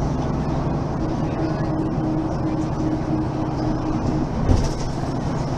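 Mercedes-Benz Citaro facelift city bus's diesel engine running steadily with a low hum. About four and a half seconds in there is a thump, followed by a brief hiss.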